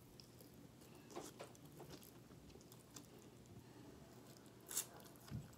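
Faint close-up biting and chewing of a forkful of broccoli: soft wet mouth sounds and small crunches, with one sharper crunch near the end.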